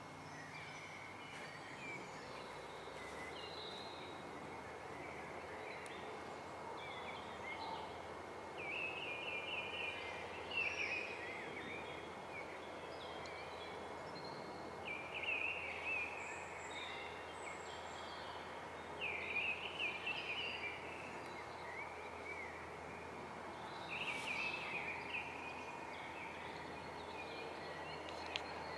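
Small birds singing short, warbling chirping phrases every four or five seconds over a steady outdoor ambient hiss.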